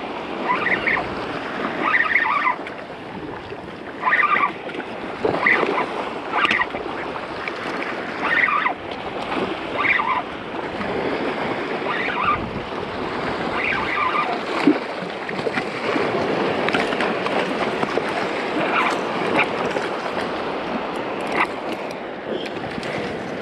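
Surf washing over rocks, with wind on the microphone and short high squeaks recurring every second or two.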